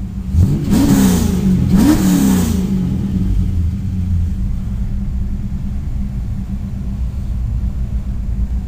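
Warmed-up LT1 V8 of a 1995 Pontiac Firebird Formula, with long-tube headers, an off-road Y-pipe and a 3-inch Magnaflow exhaust, blipped twice about a second apart, each rev rising and falling back quickly. It then settles into a steady idle.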